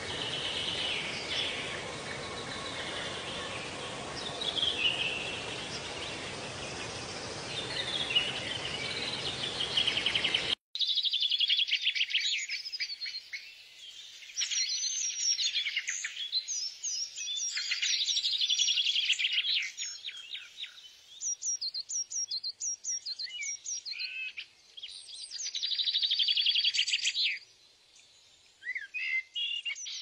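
Birds chirping and calling in quick, trilled phrases. For about the first ten seconds they sit over a steady hiss of background noise, which then drops out suddenly, leaving the calls clear.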